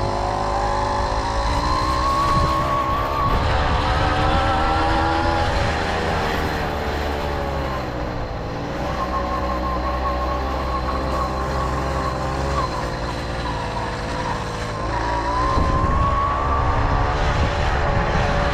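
Tomos moped's small two-stroke engine running under way, its pitch climbing as it speeds up about a second in, easing off around the middle and rising again near the end. A steady low rumble of wind buffets the microphone.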